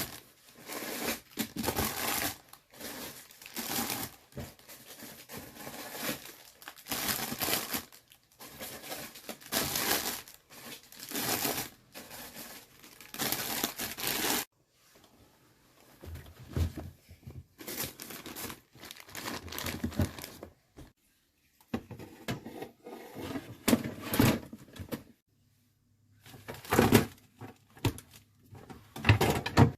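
Plastic shopping bags and packaging crinkling and rustling in irregular bursts as groceries are handled. About halfway through there is a short pause, then softer handling with a few knocks and more rustling.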